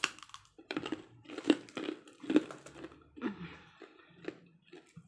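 A person chewing and smacking food close to the microphone, in a series of short, sharp mouth sounds about once a second.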